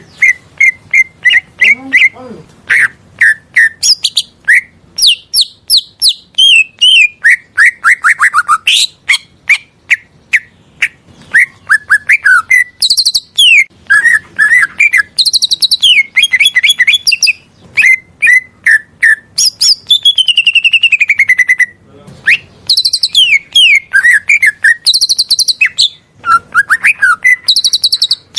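Cucak ijo (greater green leafbird) singing a fast, varied song of quick chirps, trills and falling whistles, broken by brief pauses.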